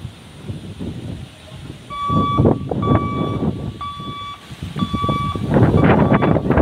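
An electronic level-crossing warning beeper sounds about once a second. Under it, the rumble and wheel clatter of an express train hauled by a WAP-4 electric locomotive grows and becomes loudest near the end.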